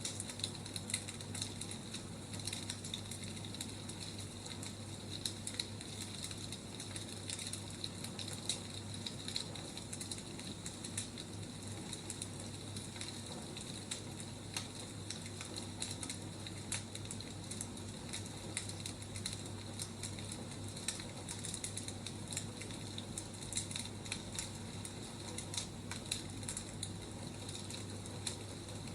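Firewood burning, with frequent irregular crackles over a steady low hum.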